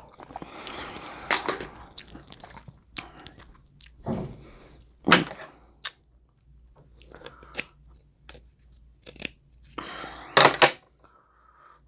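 Close-up eating of boiled crab legs: chewing with crunchy snaps and sharp cracks of shell, with a few louder bursts about five seconds in and again near the end.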